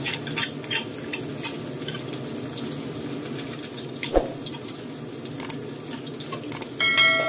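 Eggplant, garlic and spring onion frying with a steady sizzle in a stone-coated wok, with a few spatula scrapes and clicks in the first two seconds and a single knock about four seconds in. Near the end a bright chime rings out, the bell sound effect of a subscribe-button animation.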